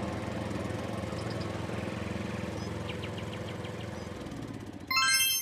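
An engine running steadily, fading out after about four seconds, then a sudden loud bell-like ding near the end.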